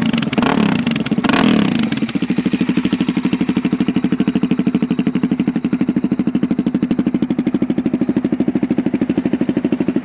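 2009 Suzuki DRZ400SM's 398cc carbureted single-cylinder four-stroke engine, revved in a few quick blips in the first two seconds and then idling with an even, rapid pulse. It runs through the stock exhaust, which has been modified to be louder.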